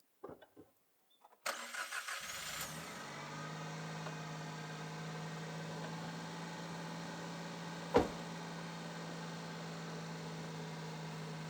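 A light truck's engine starting about a second and a half in, catching after a brief crank, then idling steadily. A single sharp knock about eight seconds in is the loudest moment.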